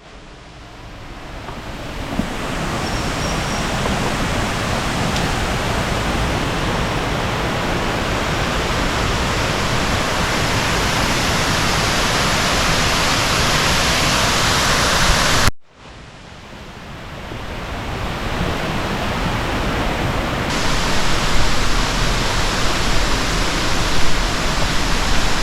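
Steady rushing of flowing water, an even noise with no rhythm. It cuts out about halfway through and builds back up over a couple of seconds.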